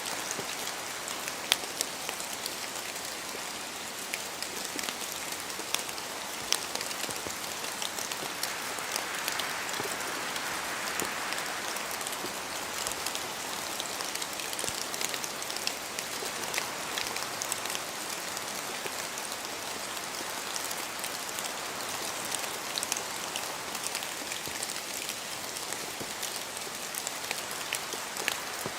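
Steady rain in a forest, with drops falling from the trees and striking close by as many sharp ticks, a few louder hits in the first several seconds. Wind swells and eases in slow gusts.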